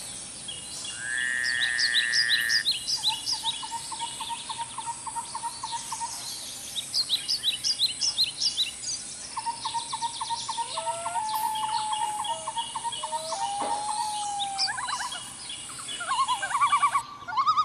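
Several birds singing and calling at once: repeated rapid trills, bursts of high chirps and a few longer whistled notes, over a steady high hiss.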